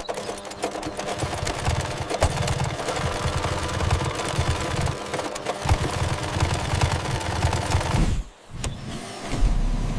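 Machinery clattering and rattling rapidly, with many sharp ticks. It breaks off briefly about eight seconds in, then a low rumble starts near the end.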